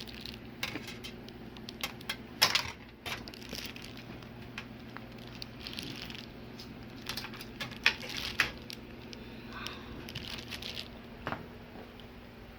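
Scattered clicks and short crinkling, rustling bursts from hands handling the TV's parts and plastic tape, over a faint steady low hum.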